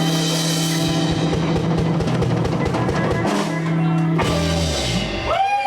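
Live blues band playing the closing bars of a song: drum kit hitting hard over held bass and guitar notes, with the song ending about five seconds in.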